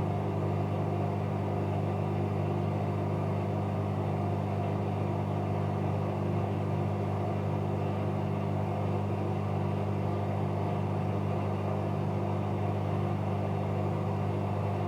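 Bauknecht Super Eco 7615 front-loading washing machine with an inverter motor, spinning at a steady speed: a constant low hum that neither rises nor falls.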